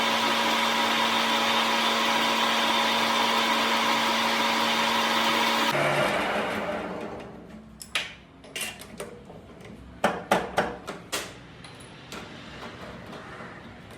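An electric power tool's motor runs steadily with a whine, then is switched off about six seconds in and spins down. Afterwards come a series of sharp knocks and clinks, several in quick succession.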